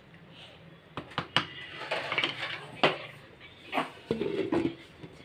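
Metal cookware clattering: a handful of sharp knocks and clinks about a second apart, with short rattling stretches, as a biryani pot is handled and closed up for dum cooking.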